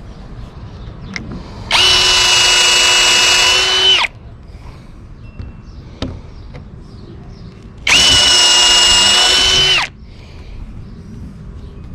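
Power drill boring pilot holes into thick wooden boards: two steady runs of about two seconds each, a few seconds apart.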